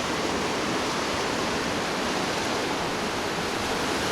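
Turbulent, foaming mountain river, the Katun, rushing steadily over its rapids.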